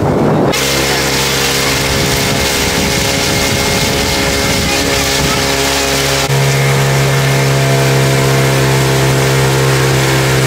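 Speedboat engine running steadily at speed, with a rushing haze of wind and water over it; it grows slightly louder about six seconds in.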